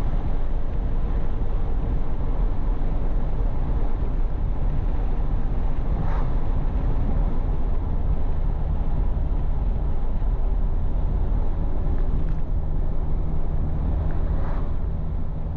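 1985 Toyota Hilux pickup with extractors and an aftermarket exhaust, running steadily: a loud, even low rumble with wind noise on the microphone and a few faint ticks.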